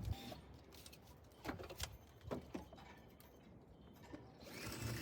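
A few faint, short clicks and taps, then a soft hiss near the end.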